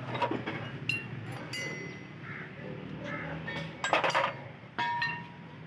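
Metal tools and steel brake parts clinking and clattering as a car's front brake assembly is dismantled, with some struck pieces ringing briefly. A cluster of clatter about four seconds in is the loudest.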